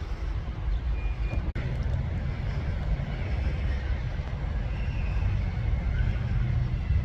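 Steady low rumble of outdoor background noise, like wind buffeting the microphone, broken by a brief dropout about one and a half seconds in.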